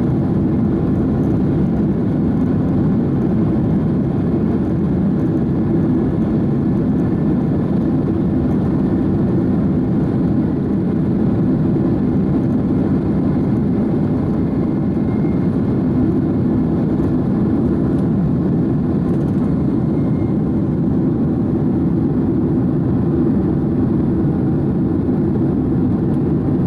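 Boeing 767-300's GE CF6 turbofan engines at takeoff thrust, a steady loud rumble through the takeoff roll and liftoff.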